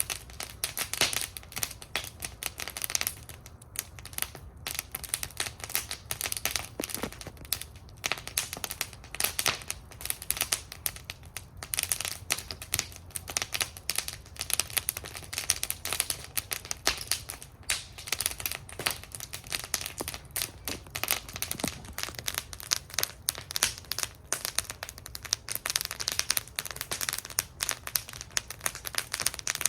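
Wood fire burning in a metal fire bowl, crackling continuously with dense sharp pops and snaps over a low steady rumble of flame.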